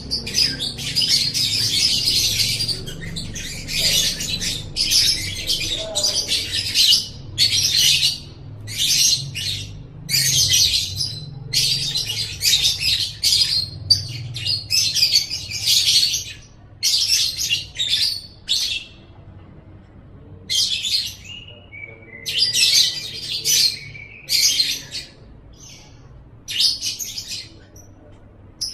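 Lovebird singing: a fast, high-pitched chattering twitter in bursts of about a second, separated by short breaks, with a longer pause about two-thirds of the way through.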